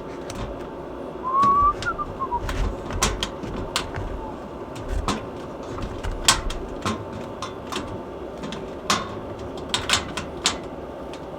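Scattered light clicks and taps of cables and small hardware being handled during a wiring job, over a steady low hum. A brief chirping whistle sounds about a second and a half in.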